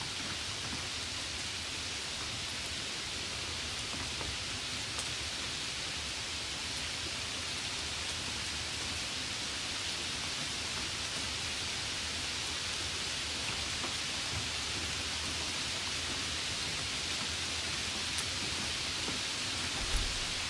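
Steady, even hiss with a few faint ticks, and a soft low bump near the end as the phone box is handled.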